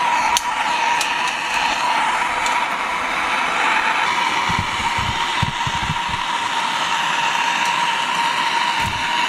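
Cordless electric blower running steadily: a rush of air over a constant motor whine, with a few low thuds around the middle.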